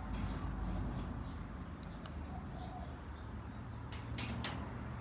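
Faint bird calls over a low, steady background hum, with a few light clicks about four seconds in.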